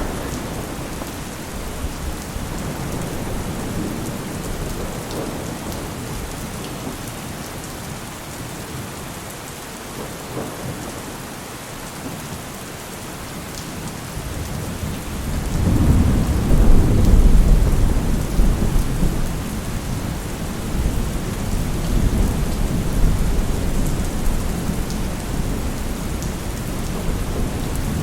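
Heavy rain falling steadily with rolling thunder. Partway through, a loud, long rumble of thunder swells up and rolls on under the rain.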